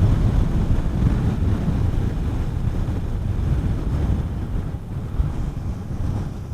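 Wind buffeting the microphone on a moving motorcycle, a Honda CB400SS: a steady low rumbling rush that begins to fade right at the end.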